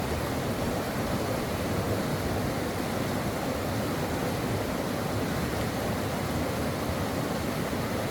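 A stream flowing, a steady even rush of running water.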